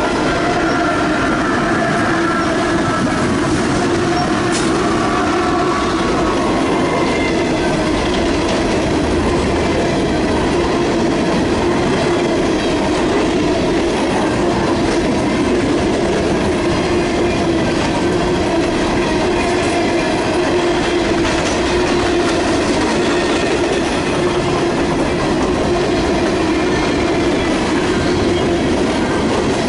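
Train cars rolling past on the rails in a continuous, even run of wheel noise, with a steady whining tone underneath and higher tones over the first few seconds.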